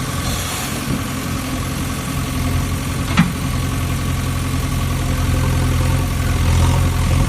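Small DC motor of a homemade mini water pump running with a steady hum, with one sharp click about three seconds in.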